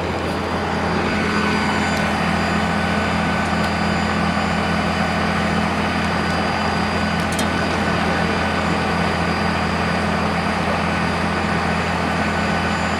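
A large engine running steadily: a low, even hum that does not change in pitch or level.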